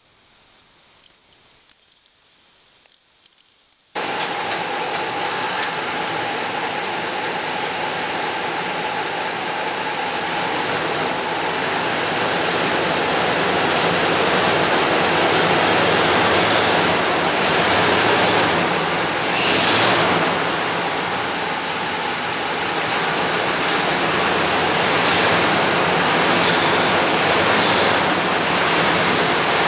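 A few faint clicks, then about four seconds in a loud, steady engine noise starts suddenly and carries on with a broad rushing hiss over a low hum.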